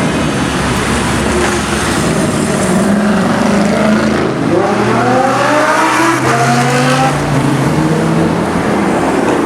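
Supercar engine running loud, the pitch rising as it revs up and accelerates about halfway through, then holding steady.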